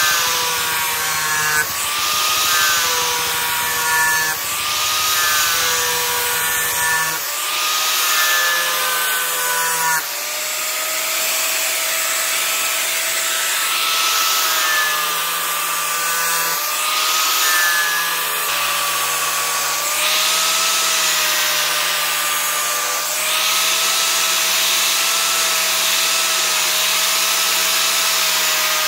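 Electric power tool running with a steady motor whine while metal is ground or sanded against it in repeated passes, the hiss swelling every two to three seconds.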